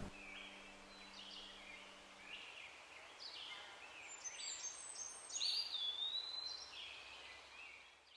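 Faint songbird singing: a series of short, high whistled phrases, some notes gliding in pitch, which cuts off just before the end.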